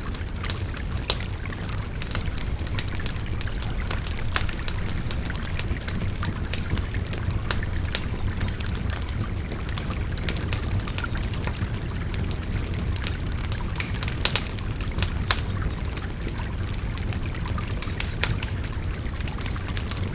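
Wood fire crackling and popping in irregular sharp snaps over the steady rushing babble of a river, with a few louder pops about a second in and around fourteen to fifteen seconds.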